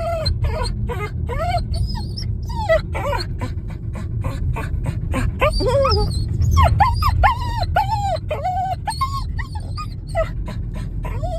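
A dog whining and whimpering excitedly, a quick string of short cries that rise and fall in pitch, with some sharper yips.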